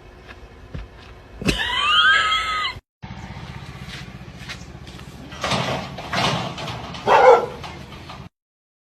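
A pet animal's calls: a loud, pitched, wavering call about a second and a half in, then, after a short break, several short calls, the loudest about a second before the end.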